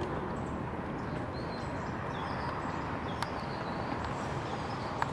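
Small birds chirping over steady outdoor background noise, with a couple of sharp clicks, one about three seconds in and one near the end.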